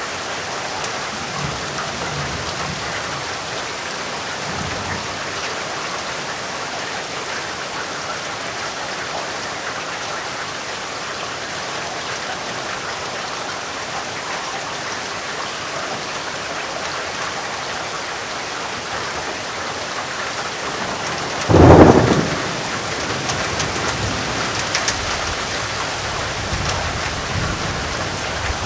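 Steady rain falling, an even hiss. About three-quarters of the way through, a sudden loud thunderclap breaks through and then trails off in a lower rumble under the rain.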